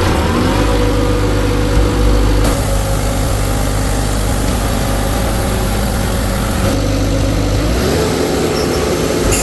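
Portable diesel air compressor, a 2016 Atlas Copco XAVS 375 driven by a turbocharged 4.5 L John Deere 4045 diesel, running at a steady idle, its pitch shifting slightly near the end.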